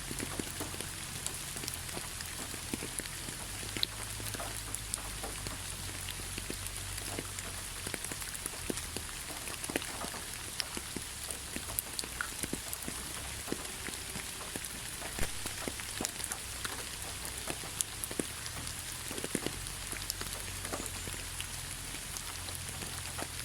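Heavy rain falling steadily, a constant hiss with many individual drops ticking sharply on a hard surface, over a low steady rumble.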